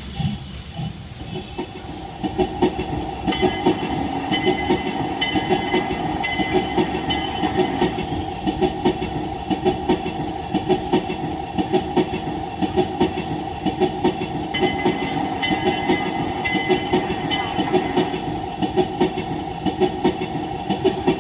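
Recorded steam train running, with a steady, rhythmic clatter of wheels and exhaust beats.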